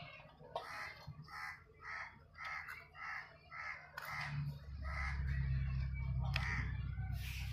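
A bird calling over and over, about ten calls at roughly two a second. A low steady rumble comes in about halfway through and carries on.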